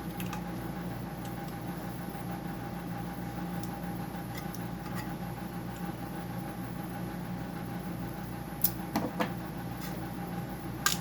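Steady machine hum with a couple of level tones, and a few sharp clicks and knocks of parts being handled about two seconds before the end and again at the very end.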